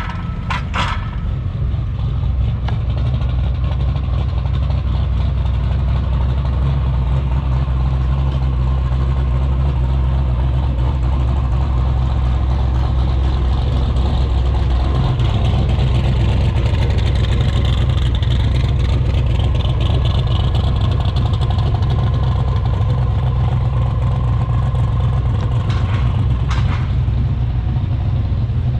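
A car engine running steadily at idle with a deep, low rumble; its note shifts slightly about halfway through.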